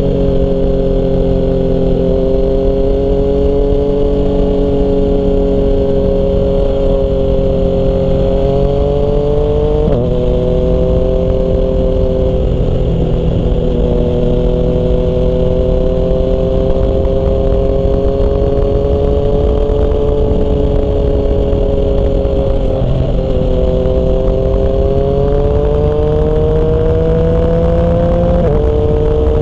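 Yamaha MT-09 three-cylinder engine through a Termignoni exhaust, running under way at a steady cruise. Its pitch rises and falls gently, with sudden shifts in pitch about a third of the way in and near the end, as at gear changes.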